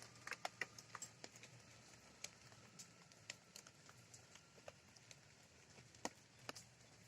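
Faint rain: scattered raindrops ticking irregularly, a few times a second, over a soft steady hiss of rainfall.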